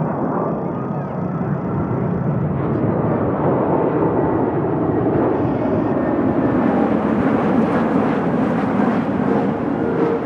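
Jet roar of an Airbus A380's four Rolls-Royce Trent 970 engines on low final approach, a loud rushing rumble with a faint whine that grows louder and peaks about eight seconds in.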